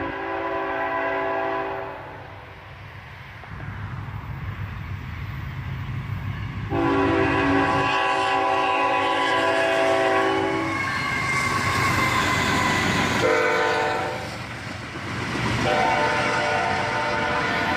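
Freight locomotive's multi-note air horn sounding the grade-crossing signal: two long blasts, a short one, then a long one. The train's rumble grows louder between the blasts as it approaches.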